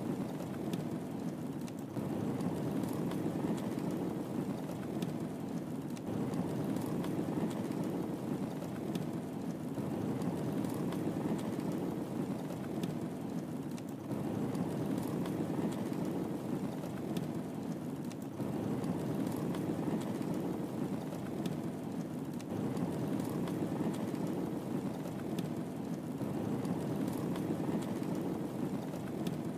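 Wood fire crackling in a fireplace: scattered small sharp pops over a steady low rushing sound.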